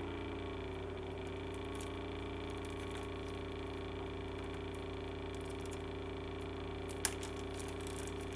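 Steady low hum with a few faint clicks, and one sharper click about seven seconds in.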